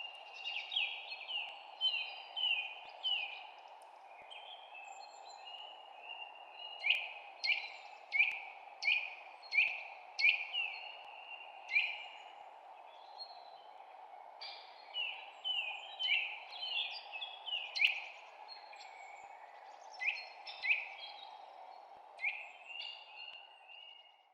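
Birds chirping: runs of short, sharply down-slurred chirps, several a second with pauses between runs, over a steady background hiss.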